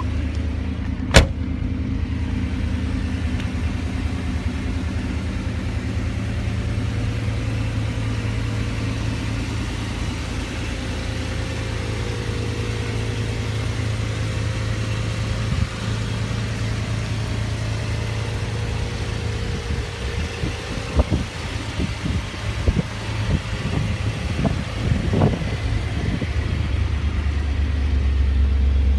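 Chevrolet Camaro IROC-Z V8 engine idling with a steady low hum. There is a single sharp click about a second in. A run of short, uneven knocks comes in the last third.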